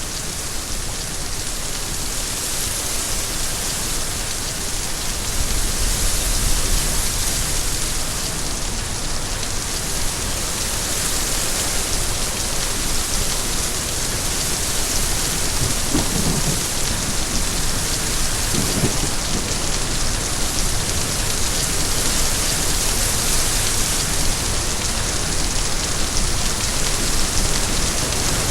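Steady, dense rainfall, with a low rumble of distant thunder about five to seven seconds in.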